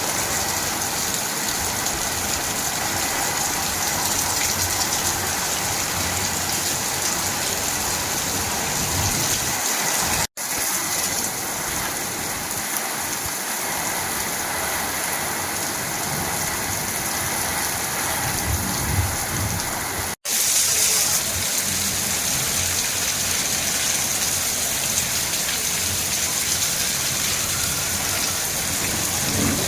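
Rain pouring steadily, an even wash of noise, broken by two abrupt, brief dropouts about ten and twenty seconds in where the recording is cut.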